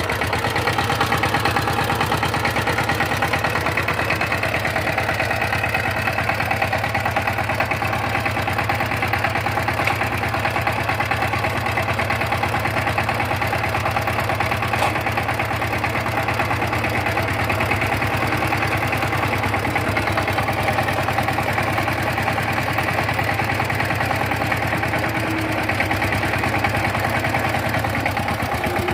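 Single-cylinder diesel engine of a walk-behind power tiller running steadily with a fast, even beat.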